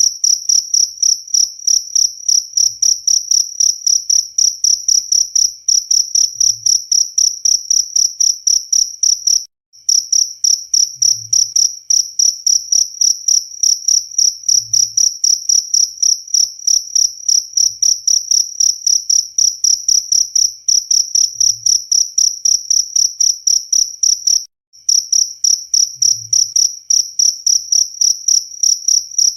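Cricket chirping: a high, pure trill repeated in a steady rhythm of about three or four chirps a second, breaking off for a moment twice.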